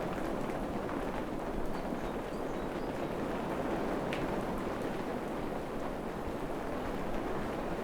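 Steady rain falling in a forest: an even, continuous wash with a few faint drip ticks.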